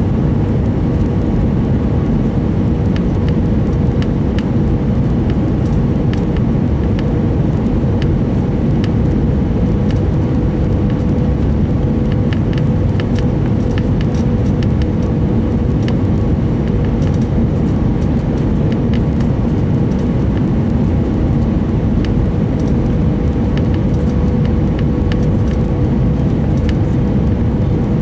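Steady cabin noise of an Airbus A319 airliner on approach: a low rushing engine and airflow noise with a steady hum through it and faint light rattles now and then.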